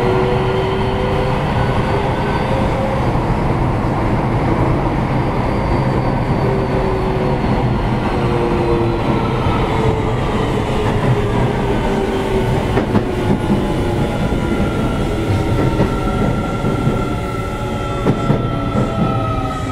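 Keio 7000-series electric train running, heard from inside car 7029: a steady wheel and track rumble with motor whine tones that slowly fall in pitch. A few wheel knocks over rail joints come near the end.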